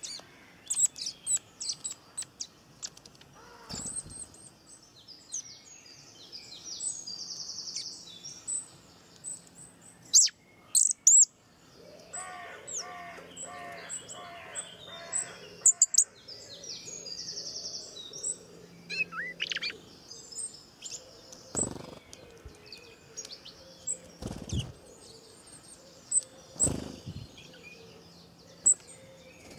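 Small birds chirping and tweeting: many short, high calls, with a lower call repeated several times a second for a few seconds around the middle. A few dull thumps come in the second half.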